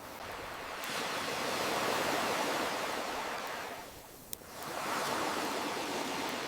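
Ocean waves washing in and drawing back: one wave swells about a second in and ebbs to a lull about four seconds in, then the next wave builds. A single sharp campfire crackle pops during the lull, with a fainter pop about a second in.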